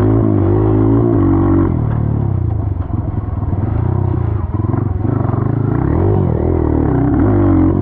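Kawasaki KLX140 dirt bike's single-cylinder four-stroke engine running while riding, its pitch rising and falling repeatedly as the throttle is opened and closed.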